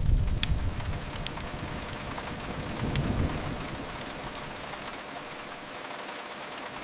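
Steady rain mixed with a crackling fireplace: a few sharp pops stand out over the rain's even hiss. A low rumble swells at the start and again about three seconds in, then fades.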